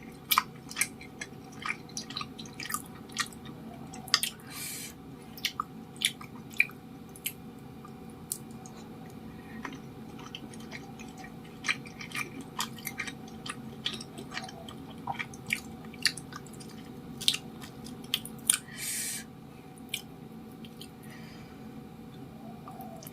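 Close-miked chewing of cilok, chewy tapioca-starch dumplings, with many short, irregular wet clicks and smacks.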